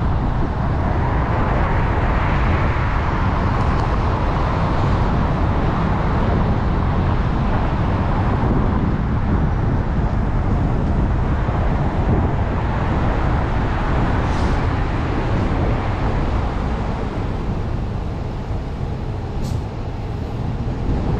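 Steady road noise of a car being driven, a low rumble with tyre hiss, easing slightly near the end.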